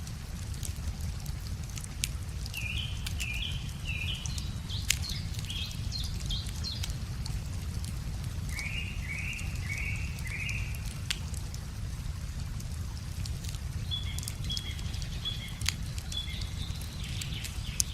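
Wood fire crackling with scattered sharp pops, over a steady low rumble, while birds sing several phrases of short repeated notes, one a run of four quick descending notes about nine seconds in.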